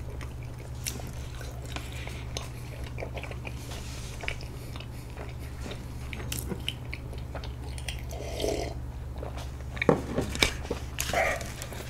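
A person chewing soft, sticky rice cake (bandal-tteok), quiet mouth sounds over a steady low hum, with a few sharper clicks and knocks near the end.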